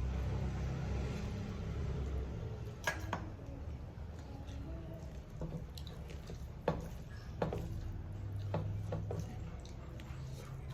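A person eating fish curry: wet squishing and chewing sounds, with a few sharp clicks and taps scattered through.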